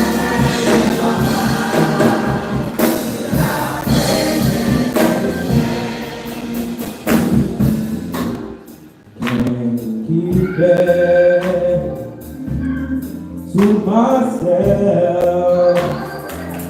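Gospel choir and congregation singing over a live church band with tambourine and percussion. The music drops off briefly about halfway through, then the voices come back in.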